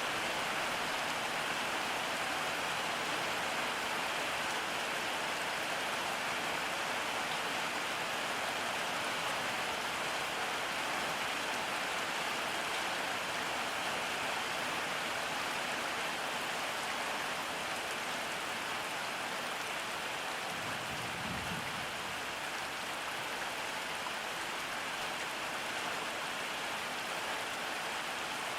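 Steady rain, an even hiss with no let-up, with one brief low rumble about three-quarters of the way through.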